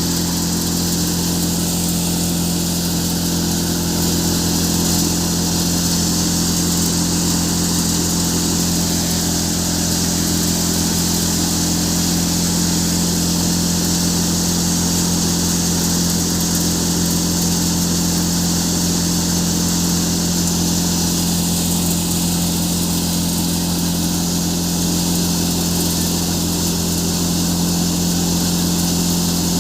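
Tractor-driven threshing machine running steadily while threshing chickpeas: an unbroken engine hum under a steady high hiss.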